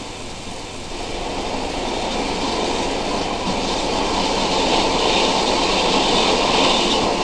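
Steady rushing noise of a train running, growing gradually louder.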